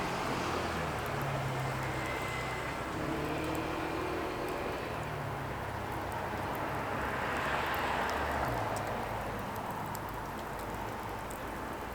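Burning firewood with faint scattered crackles and pops over a steady low rumble that swells and fades about eight seconds in.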